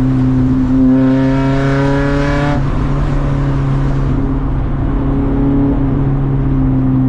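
Race car engine running hard with a steady drone, and a higher note that climbs from about a second in and cuts off sharply near two and a half seconds.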